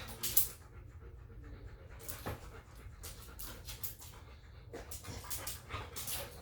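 Dog panting in irregular breathy bursts.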